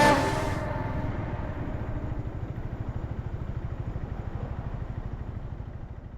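Honda Rebel motorcycle engine idling with an even, pulsing beat, slowly fading away near the end. Music cuts off just at the start.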